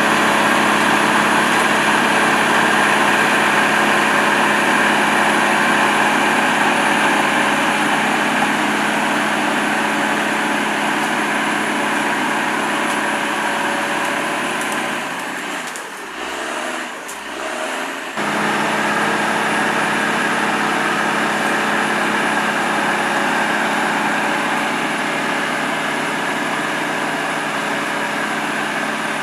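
Heavy machinery engine running steadily at a constant speed, with a faint high steady whine. It drops away briefly about fifteen seconds in, then resumes as before.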